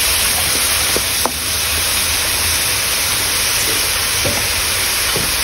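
Vegetables stir-frying in a hot wok: a steady sizzling hiss, with a few light taps and scrapes of a wooden spatula.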